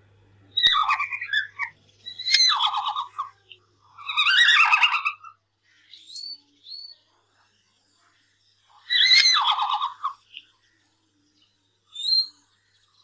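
Red panda calling: four high, pulsing calls of about a second each at irregular intervals, with a few short, fainter chirps between them.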